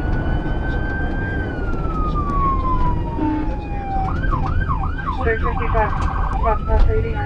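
Police car siren: a slow wail falling in pitch, switching about four seconds in to four quick yelp sweeps, then a fast warble, then back to the slow wail. Underneath is a steady low rumble of engine and road noise.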